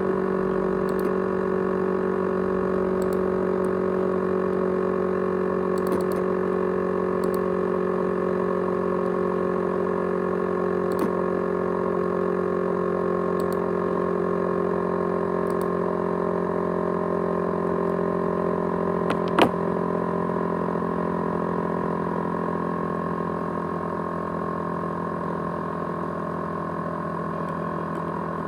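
ASUS X543UA laptop with its 500 GB USB hard drive running, a steady whirring hum made of several fixed tones, which the owner calls a rattling, jet-engine sound. A sharp click comes about two-thirds of the way in, and the hum eases slightly near the end.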